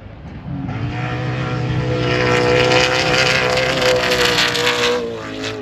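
An engine passing close at steady high revs: a loud pitched drone that swells over the first few seconds and falls away just after five seconds in.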